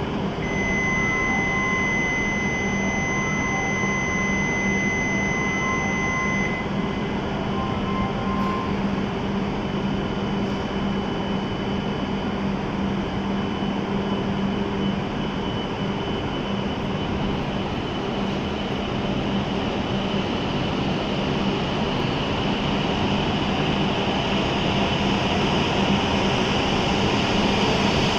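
E7-series Shinkansen train pulling out of the platform and gathering speed, its running noise growing louder and higher toward the end. For the first six seconds or so, a steady high electronic tone sounds together with short repeated beeps, the warning as the doors and platform gates close.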